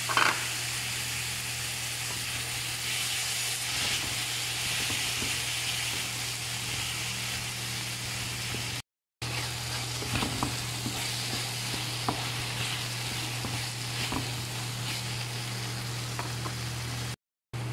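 Chicken, tomato and green chili frying in a wok: a steady sizzle over a low hum, with a wooden spatula stirring and scraping in short clicks from about ten seconds in. The sound cuts out briefly twice.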